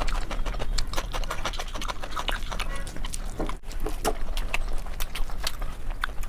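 Close-miked eating sounds: wet chewing and lip smacking of a mouthful of food, a dense run of small clicks and squelches.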